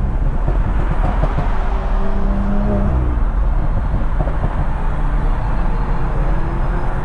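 Car cruising on a highway: steady road and wind noise with the engine running underneath, its tone shifting about three seconds in.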